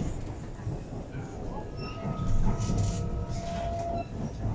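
BTS Skytrain car running, heard from inside the car: a low rumble, with a steady high whine for about two seconds in the middle.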